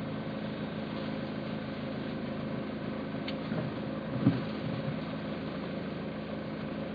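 Steady hum of a car engine running, heard from inside the vehicle, with a short thump about four seconds in.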